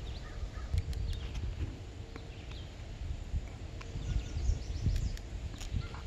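Small birds chirping, with short high calls scattered throughout, over a low irregular rumble of wind on the microphone.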